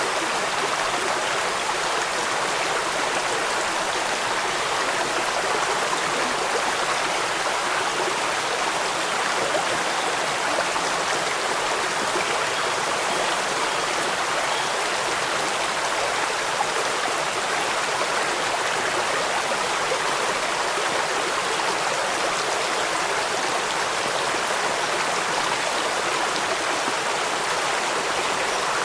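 Running water rushing steadily: an even, unbroken hiss with no separate drops or splashes standing out.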